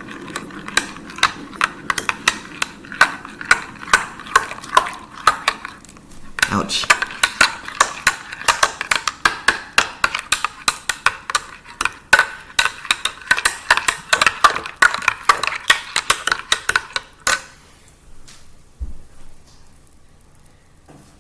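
A spoon stirring instant coffee into hot water in a cup, clinking rapidly against the sides. The stirring pauses briefly about six seconds in and stops about seventeen seconds in with one sharper knock.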